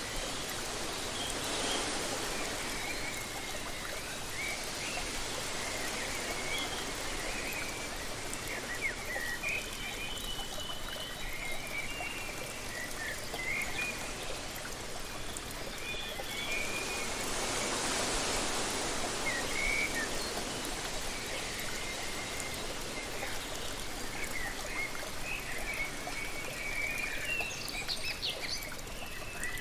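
Steady rushing of a waterfall with small birds chirping and twittering over it, the birdsong busiest near the end. The rush swells twice, about two seconds in and again around eighteen seconds, like gusts of wind.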